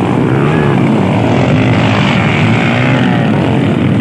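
Motocross dirt bike engines running loud, their pitch rising and falling as they rev.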